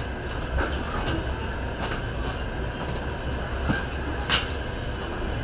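Train running, heard from inside the passenger carriage: a steady low rumble with scattered clicks and rattles, and one sharper knock about four seconds in.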